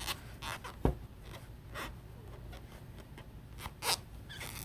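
Faint scratchy rustling of a crochet hook working yarn through stitches, in a handful of short, uneven strokes.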